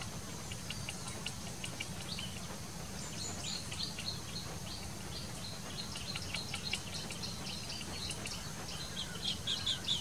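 Birds chirping: many short, high notes, coming more thickly in the second half and loudest near the end, over a steady low rumble and a thin, steady high tone.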